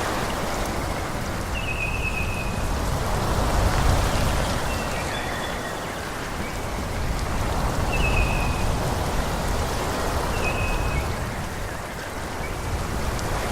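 Wind rushing through forest trees, swelling in gusts twice, with a bird giving short high chirps every few seconds.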